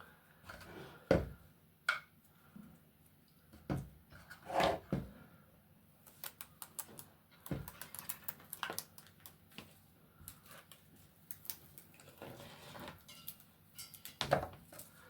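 Hands handling plastic parts and an LED light strip: irregular clicks, taps and rustles, with a few louder knocks.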